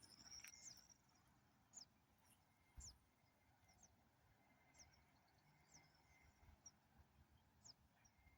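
Faint bird calls: short, high, downward-sliding chirps repeated about once a second over a very quiet outdoor background.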